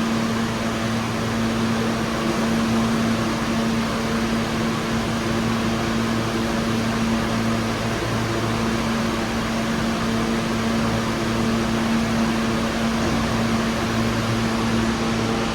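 Steady mechanical hum and hiss in a subway station, with one strong constant low tone and a few fainter tones, unchanging throughout.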